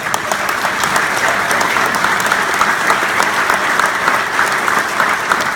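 Crowd applauding and clapping, starting abruptly and holding steady throughout.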